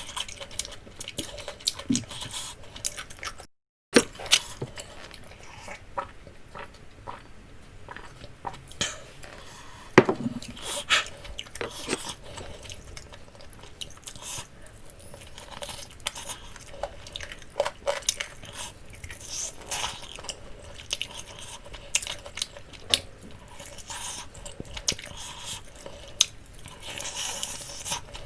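Close-miked eating sounds: chewing of jerk chicken with scattered clicks of cutlery and dishes. The sound drops out for a split second a little before four seconds in.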